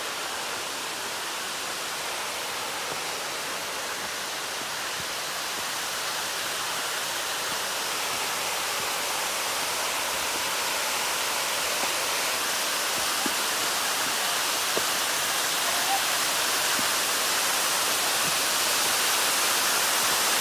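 Waterfall rushing steadily, growing gradually louder as it is approached.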